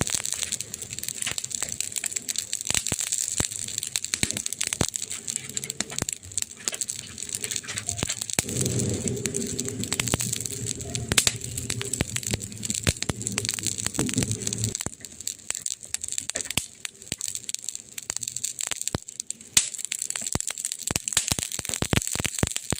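Campfire wood burning, crackling steadily with frequent sharp pops over a soft hiss. For about six seconds in the middle a low, steady hum sounds along with it.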